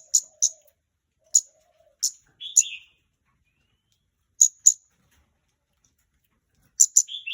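Scarlet-backed flowerpecker calling: sharp, high ticking notes, singly and in quick pairs, with a short buzzy lower note twice. A dove coos faintly in the first couple of seconds.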